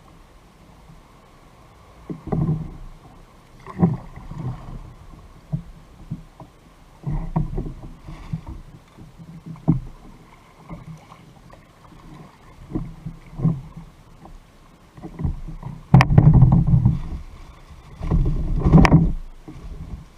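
Water splashing and sloshing around a fishing kayak in irregular surges about a second or so apart, with two louder, longer splashes near the end.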